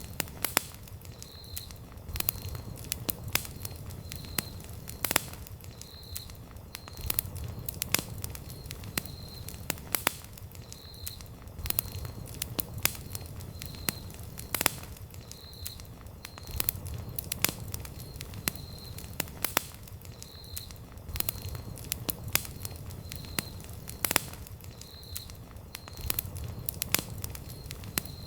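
Wood campfire crackling: irregular sharp pops and snaps from the burning wood over a low, steady rumble of the flames.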